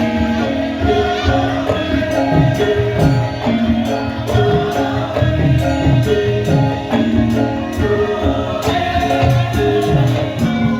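Javanese gamelan music playing for a lengger dance, with repeated drum strokes under held ringing notes and singing voices.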